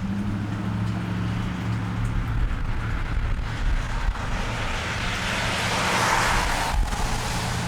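A car passing on a wet street: a low engine hum at first, then a hiss of tyres on the wet road that swells to its loudest about six seconds in and eases off.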